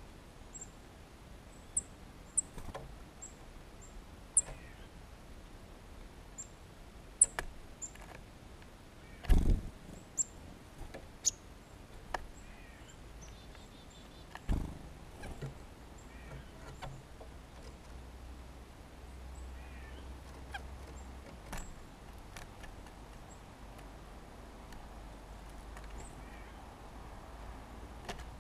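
Small songbirds chirping: scattered short, high call notes and a few lower two-part calls. Sharp clicks are mixed in, and there are two dull thumps near the middle, over a low steady outdoor hum.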